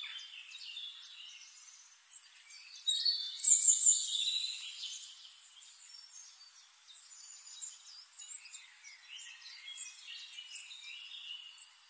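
Birds chirping and twittering, a mix of short high calls and quick glides, with a louder, busier flurry of calls about three to five seconds in.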